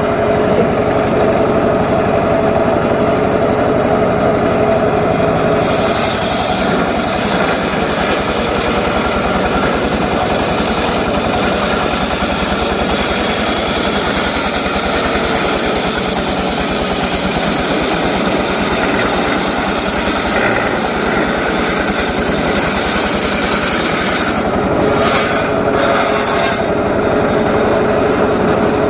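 Small engine-powered saw running steadily, then cutting into johar wood from about six seconds in until about twenty-five seconds, a loud rasping cut over the engine, before going back to a steady run.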